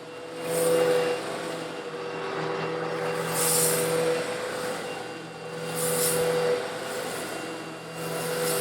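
Eureka vacuum cleaner running steadily, sucking up small coarse stone granules. The motor's hum stays constant while a rattling hiss swells up about every two and a half seconds as the nozzle passes over the grit.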